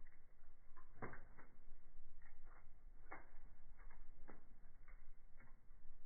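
Wood fire crackling in a fireplace: irregular sharp pops and snaps, about a dozen, over a low steady rumble of the burning logs.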